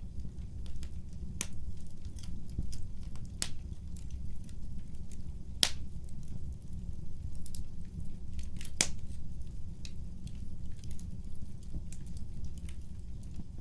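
Wood fire crackling, with irregular sharp pops and snaps over a steady low rumble of the flames; two pops, about halfway and two-thirds of the way through, stand out as the loudest.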